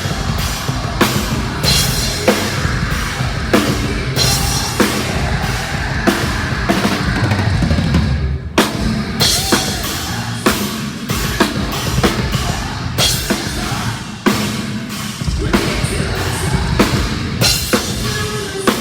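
Heavy metal band playing live, the drum kit prominent with bass drum and cymbal strikes driving a steady beat; the music drops out briefly about eight seconds in.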